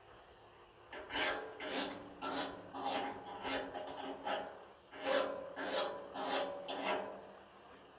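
Hand metal file rasping along the steel blade edge of a pair of loppers, sharpening it: about a dozen strokes, roughly two a second, starting about a second in, with a faint ring from the blade.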